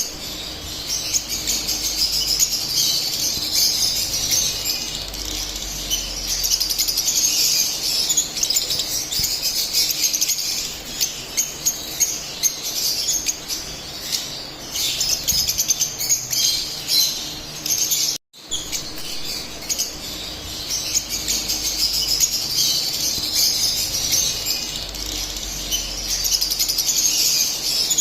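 A group of lovebirds chirping and chattering non-stop in rapid, high-pitched twitters, with a brief break about two-thirds of the way in.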